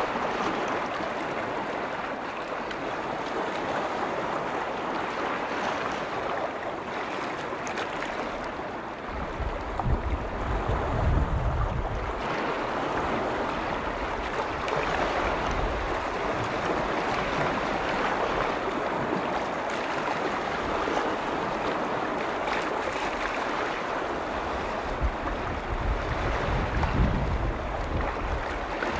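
Lake waves washing and lapping steadily on the shore, with wind buffeting the microphone in low rumbling gusts about ten seconds in and again near the end.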